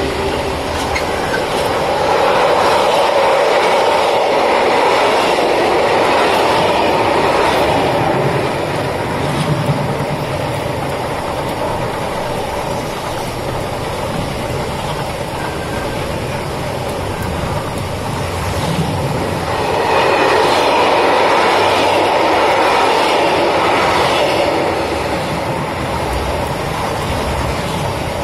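Container wagons of an intermodal freight train rolling past, a continuous rumble of steel wheels on rail that swells twice, a few seconds in and again about two-thirds through.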